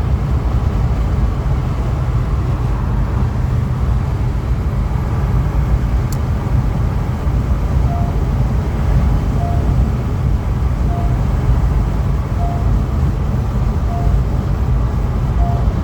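Steady road and wind noise inside a Honda Elevate's cabin at highway speed, about 130 km/h. From about halfway through, a short beep repeats about every second and a half, typical of the over-speed warning chime that sounds above 120 km/h.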